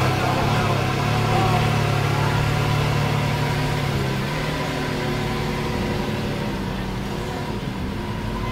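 Car engine running at low revs while the car is backed up. It holds a steady hum that drops in pitch about four seconds in and fades a little toward the end.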